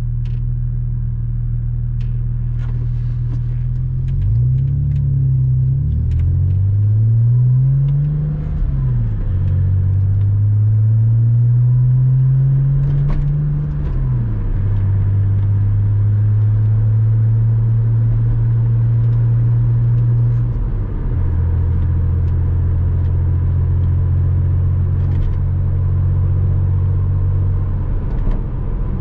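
Porsche Boxster 986's flat-six engine pulling through the gears: the engine note climbs and falls back at each of three upshifts in the first half. It then runs steady at a cruise, dropping to a lower steady note at a fourth upshift about two-thirds of the way through.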